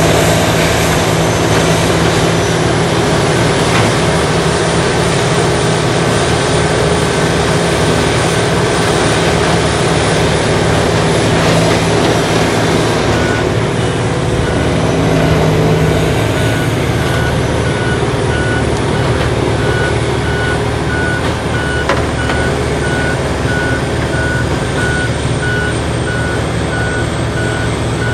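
Heavy diesel machinery running loudly and steadily: a tracked horizontal wood grinder at work with its feeding excavator. A vehicle backup alarm starts beeping steadily about halfway through.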